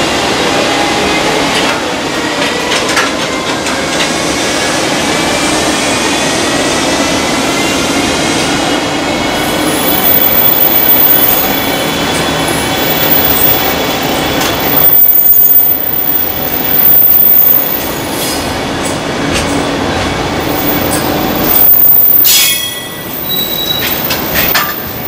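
A long container freight train of Koki flatcars rolling past at speed: a steady rumble of steel wheels on rail, with thin high wheel-squeal tones through the first half. In the second half come sharper clacks and knocks as the wheels pass over the track.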